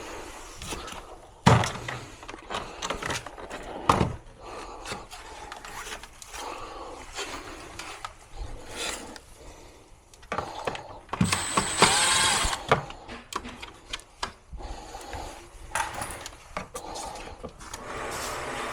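Clicks, knocks and scrapes of plastic panels and parts being handled and unclipped while a Samsung two-in-one air conditioner is taken apart, with two sharper knocks in the first four seconds and a brief squeaky scrape about twelve seconds in.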